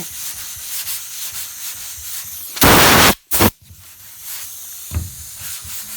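Dry block sanding of primer on a car roof by hand: sandpaper on a sanding block rubbing back and forth. About two and a half seconds in comes a loud half-second rush of noise, then a shorter one just after.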